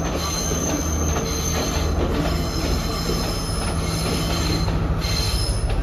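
Diesel passenger train running past on a curve, its wheels squealing in steady high tones over the low rumble of the engine and running gear.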